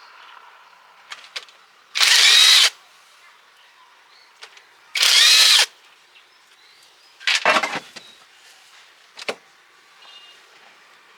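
Handheld electric power tool run in two short bursts about three seconds apart, its motor pitch rising and falling. A shorter clatter and a single sharp knock follow near the end.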